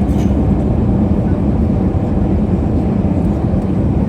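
Airliner cabin noise during landing: the engines and rushing air make a steady, loud low rumble.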